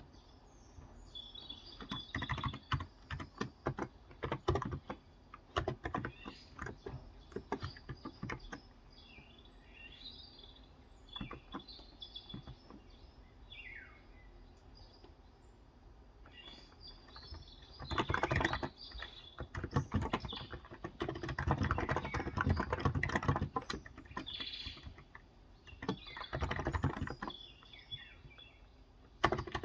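Typing on a Cox Endeavour electro-capacitive (contactless) keyboard with 35 g switches: runs of quick keystrokes, with a lull in the middle. Birds chirp in the background, most clearly during the lull.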